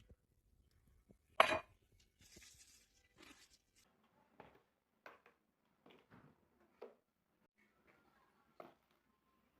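Household objects being handled: one sharp clatter about a second and a half in, followed by scattered light clicks, taps and soft rustling.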